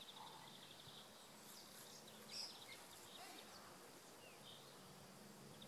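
Quiet outdoor ambience with faint birdsong: a short high trill at the start and a few scattered chirps.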